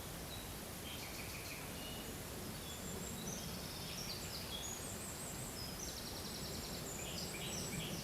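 Several small birds singing and chirping: short high notes and rapid trills that start about a second in and grow busier, over a steady low background rumble.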